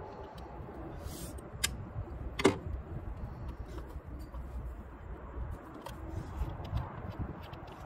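A few sharp clicks and knocks of parts or tools being handled, the loudest about two and a half seconds in, with a short hiss just after a second in, over a low steady rumble.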